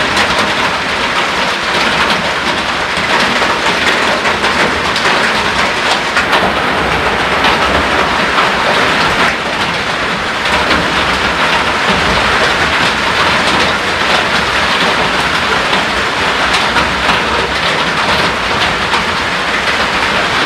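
Heavy rain falling steadily, a loud, dense patter.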